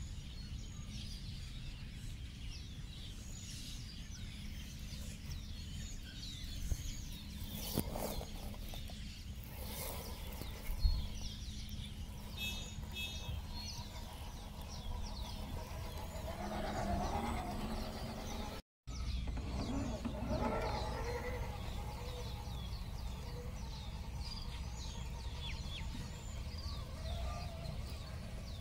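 Birds chirping and singing, many short high calls throughout, over a steady low background rumble, with a couple of brief sharp knocks.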